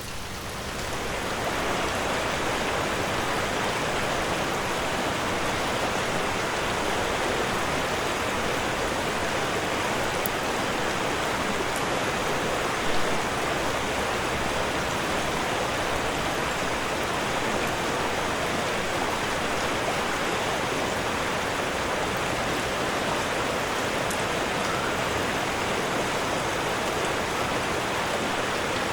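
Steady, even rush of water noise, fading in over the first two seconds and then holding constant.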